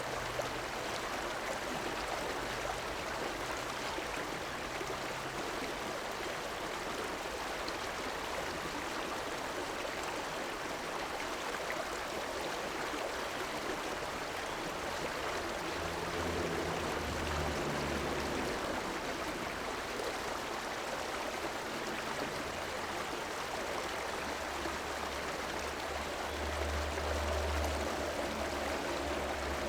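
River water flowing steadily: a continuous rushing noise. A low rumble swells up twice, once around the middle and again near the end.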